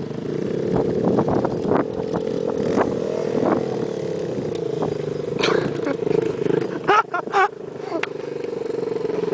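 Small single-cylinder trail motorcycle engine running at a near-steady pitch, with scattered sharp clattering knocks. A few loud, brief sounds come about seven seconds in.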